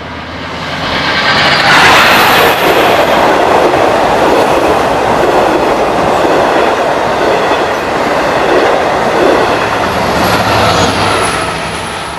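Long Island Rail Road DM30AC diesel locomotive passing at speed with a train of bi-level coaches. The engine builds to its loudest as it goes by about two seconds in, then the coaches rumble and clatter over the rails, easing off toward the end.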